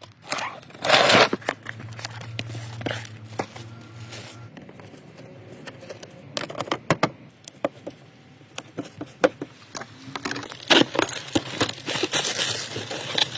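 Irregular clicks, knocks and scrapes of parts and packaging being handled, with a brief rustle or crinkle about a second in and a low steady hum from about two to four seconds in.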